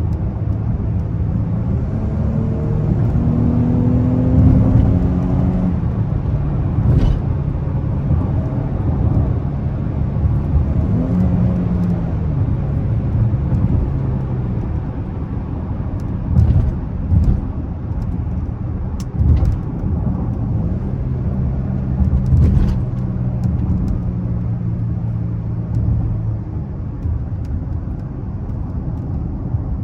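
Dodge Charger V6 engine and road noise while driving. The engine note rises as the car accelerates a few seconds in, then holds steady at cruise. A few brief knocks come through about halfway through.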